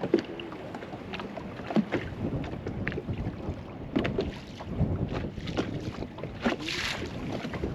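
Choppy, wind-blown water slapping against a small fishing boat's hull in irregular knocks, with wind buffeting the microphone and a brief hissing gust near the end.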